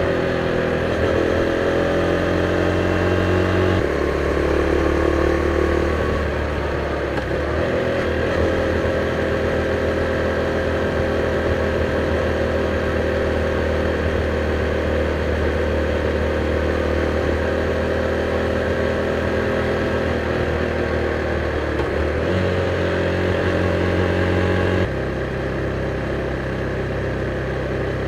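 KTM Duke 390's single-cylinder engine through its stock exhaust, riding in city traffic. The engine note holds fairly steady, drifting up and down, with changes about four seconds in and again near the end.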